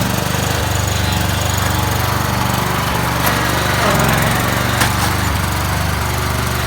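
Husqvarna 23 hp lawn tractor engine running steadily, with a couple of short sharp clicks, one a little past the middle and one later.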